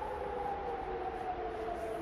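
A distant siren wailing, several steady tones held together and sliding slowly down in pitch, over a low outdoor rumble.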